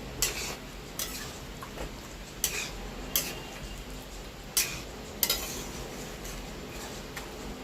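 A spatula scraping and clinking against a cooking pan as chicken pieces are stirred and fried down in spices, with about seven irregular knocks over a low frying sizzle.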